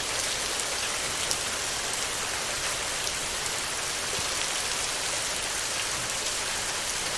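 Heavy rain falling steadily on a tin roof, an even hiss with faint scattered drop ticks.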